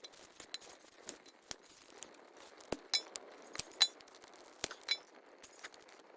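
Scattered light clinks and clicks, about a dozen, irregularly spaced, a few of them with a short high metallic ring, the loudest nearly four seconds in.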